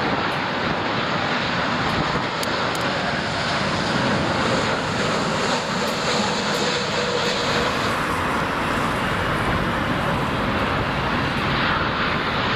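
Jet airliner engines running, a steady noise throughout, with a faint whine about five to seven seconds in.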